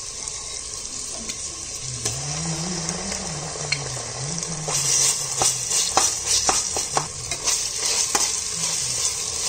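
Onions, tomato and ginger-garlic paste sizzling steadily in hot oil and ghee in a pressure cooker. About halfway the sizzle grows louder and a metal spoon starts stirring, clicking and scraping against the pot.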